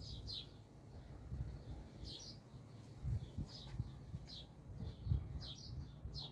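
Small birds chirping in short, high, downward-slurred notes, often in pairs, repeated every second or so. Low rumble and a few dull thumps lie underneath.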